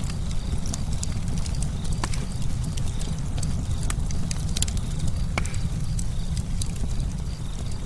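Campfire burning: a steady low rumble of the flames with frequent irregular sharp crackles and pops from the burning wood.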